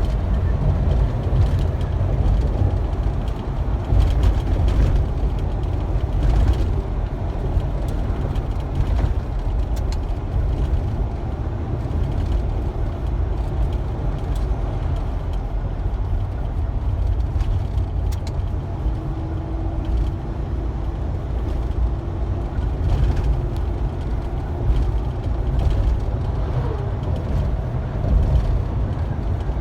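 A truck driving along: a steady low rumble of engine and road noise, with no change in pace.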